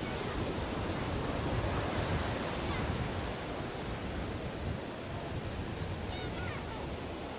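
Steady wash of wind on the microphone and water rushing past on the deck of a moving ferry, with a heavy low rumble underneath. A short bird call comes about six seconds in.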